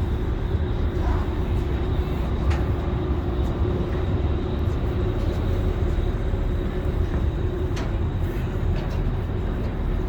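Steady low rumble of vehicle or engine noise, with a faint hum through the middle and a few light clicks.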